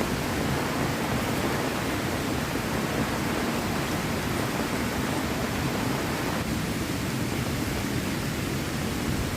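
Steady, even rushing of heavy rain and running water.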